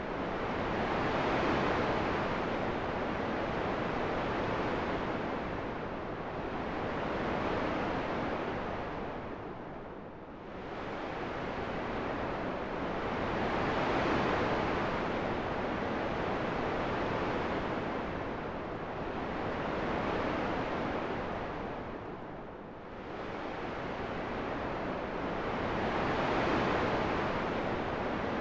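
Rushing wind noise that swells and eases in slow gusts, cresting about every six seconds, with two deeper lulls about a third of the way in and again about four-fifths of the way through.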